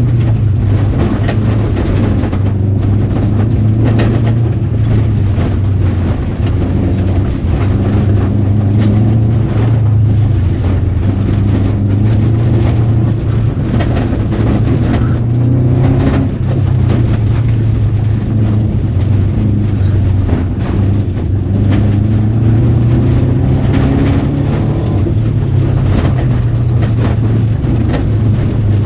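Rally car engine being driven hard, its pitch rising and falling every few seconds as it is revved and eased off through corners.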